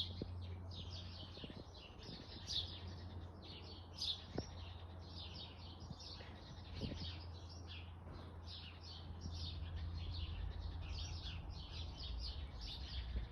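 Small songbirds chirping and twittering continuously in quick, high notes, over a low steady rumble.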